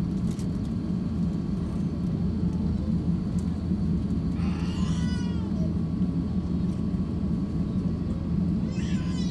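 Steady low rumble of the Airbus A350-1000's cabin noise. Two short high-pitched wailing cries cut through it, one about four and a half seconds in and another near the end.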